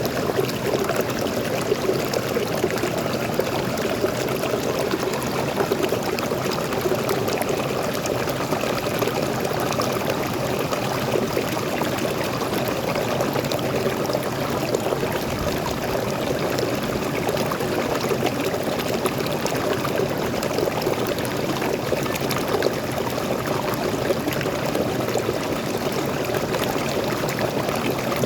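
Small waterfall splashing and pouring steadily into a forest stream, with no breaks or changes.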